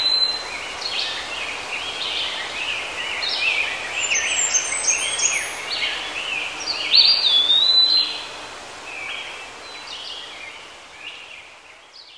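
Forest birds calling, with many short chirps and whistles overlapping. A louder swooping whistle comes about seven seconds in. The birdsong fades away near the end.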